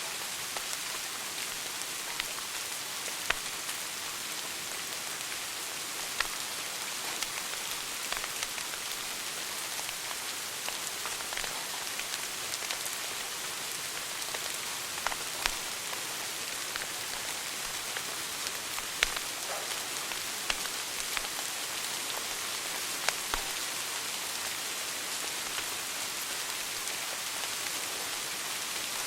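Wood fire burning in a fireplace: a steady hiss with irregular sharp crackles and pops scattered through it.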